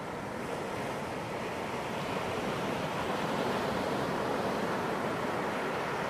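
Ocean surf breaking and washing up on a beach: a steady rush of waves that swells a little after the first couple of seconds.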